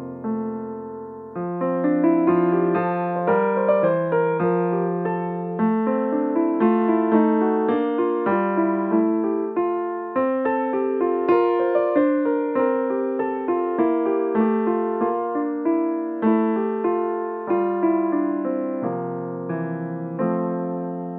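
Piano playing, with notes and chords struck one after another, each dying away as the next comes in.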